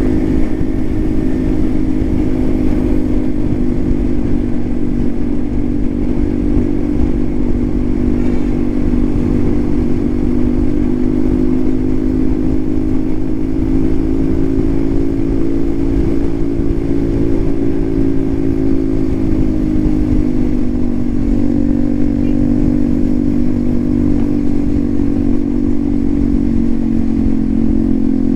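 Hero XPulse 200 4V's single-cylinder engine running through an aftermarket SC Project exhaust, with a steady note throughout. The pitch creeps up slightly through the middle and settles back down about two-thirds of the way through.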